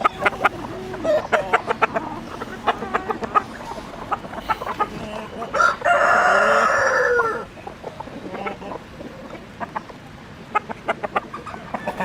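Chickens clucking in short, repeated calls, with a rooster crowing once about six seconds in: one long, loud call that drops in pitch as it ends.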